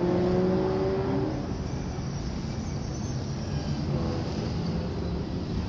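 Historic racing car engine passing at speed, its note falling over the first second or so. A steady rumble of other racing engines on the circuit follows.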